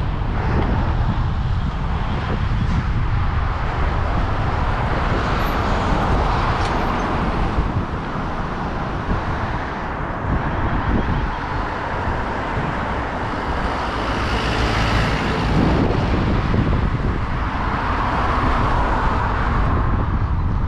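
Road traffic noise with wind buffeting the microphone during a bicycle ride: a steady low rumble and hiss, with vehicles swelling past, the loudest about two thirds of the way through.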